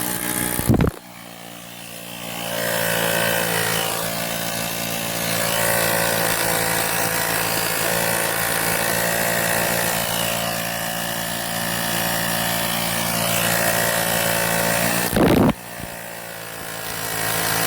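Woowind AP2-P cordless electric tyre inflator's small piston compressor running steadily while it inflates a car tyre, with a loud even buzz. There are two brief knocks, about a second in and again about fifteen seconds in.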